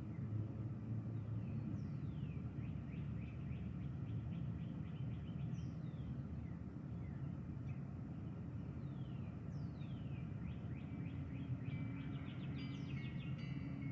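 Birds calling outdoors: several short whistles sliding downward in pitch and bursts of fast, trilled notes, busiest near the end, over a steady low rumble of background noise.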